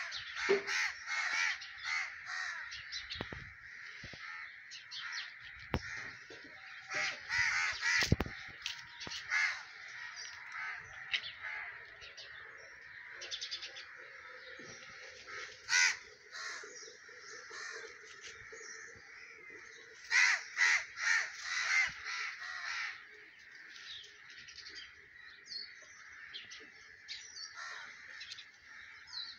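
Birds calling in dense, overlapping bouts, loudest around seven to eight seconds in, at about sixteen seconds and from about twenty to twenty-three seconds, with a few dull thumps in the first eight seconds.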